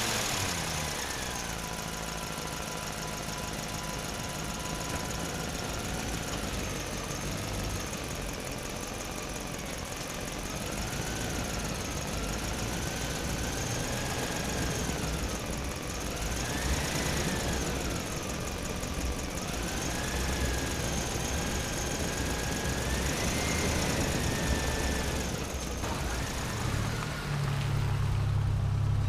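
Vehicle engine sound running steadily, with a whining tone that wavers up and down in pitch, and a louder low hum in the last couple of seconds.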